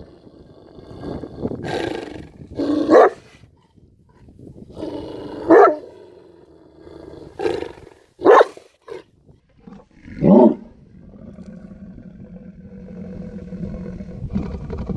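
Moscow watchdog growling over his bone, a run of short loud growls and then one long low growl near the end: guarding his food.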